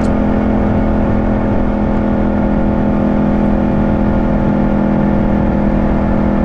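Yamaha CP2 689 cc parallel-twin motorcycle engine running at a steady pitch while cruising, with low rumbling wind noise underneath.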